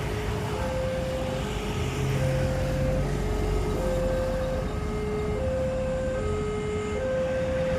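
Railway level-crossing warning alarm sounding an electronic two-tone, alternating high and low notes about every three-quarters of a second, over a steady low rumble.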